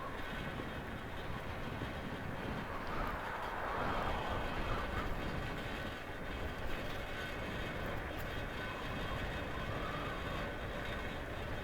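Steady rumble of traffic and wind noise heard while riding through city streets, swelling louder for a couple of seconds about three seconds in.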